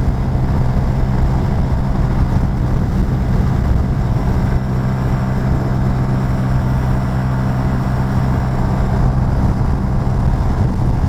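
Honda Super Cub C125's small single-cylinder four-stroke engine running flat out at a steady pitch near its top speed of almost 69 mph, geared one tooth lower with a 37-tooth rear sprocket.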